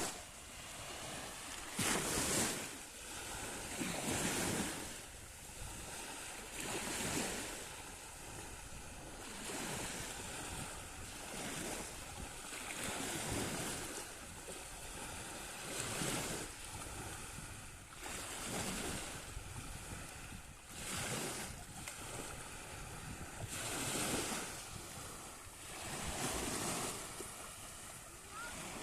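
Black Sea surf: waves breaking and washing ashore, swelling and fading every two to three seconds, with some wind on the microphone.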